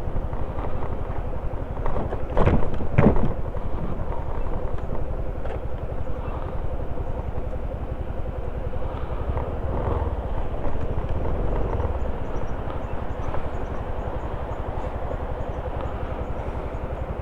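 Motorcycle running on the move, with a steady low rumble of engine and wind on the microphone. Two brief louder bursts come about two and a half and three seconds in.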